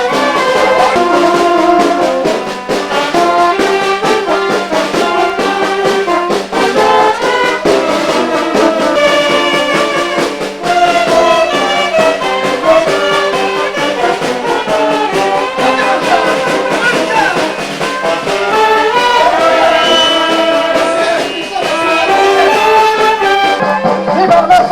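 A brass band playing a tune, with trumpets and trombones holding notes together.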